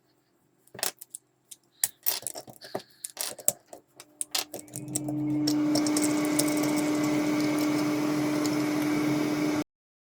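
A few light clicks and rattles, then a small electric motor starts up about four and a half seconds in and runs with a steady hum before cutting off suddenly.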